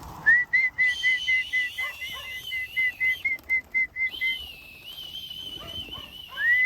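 A trilling whistle held for about four seconds to call pigeons in to feed, then a second one starting near the end. Faint animal calls sound underneath.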